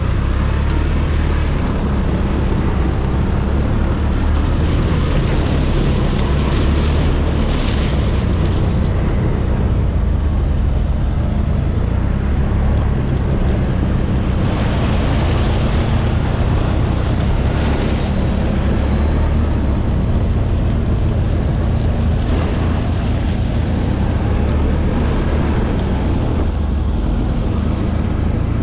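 ATV engine running steadily under way, with wind buffeting the microphone.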